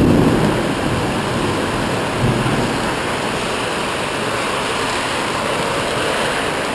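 Heavy rain pouring down in a steady hiss, with a low rumble fading in the first second and a brief swell about two seconds in.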